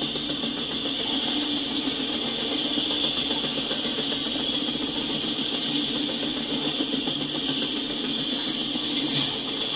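Steady rolling noise and hiss of a freight train of autorack cars passing, even and unbroken with no distinct clanks or wheel clicks.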